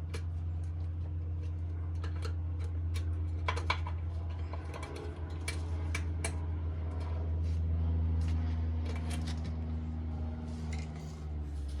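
Hand tools clinking and clicking in scattered light metallic knocks over a steady low hum.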